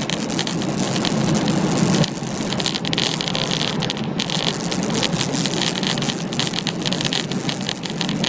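Boeing 777-300 cabin noise by the wing during landing: a loud, steady rush of engine and airflow with a crackling, rattling texture, easing slightly about two seconds in.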